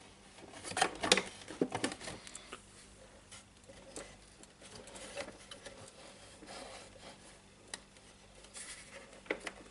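Small plastic parts being handled and fitted into a plastic radio housing: scattered light clicks and rustling, with a sharper cluster of clicks about a second in and again near the end.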